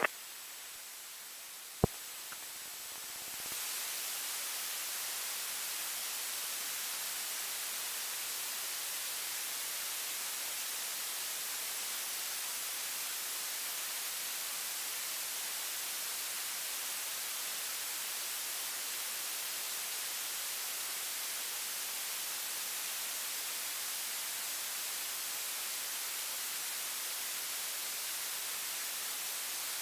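Steady electronic hiss on the aircraft's radio audio feed between transmissions, strongest in the high frequencies. A single sharp click comes about 2 s in, and the hiss steps up a little later and then holds level.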